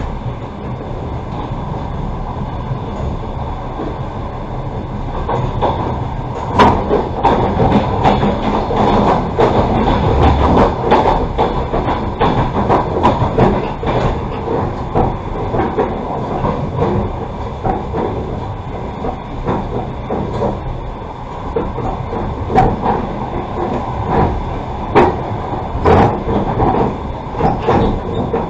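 Passenger train running on the track, heard from inside the carriage: a steady rumble of wheels on rails, getting louder about six seconds in, with sharp clacks every few seconds as the wheels strike rail joints.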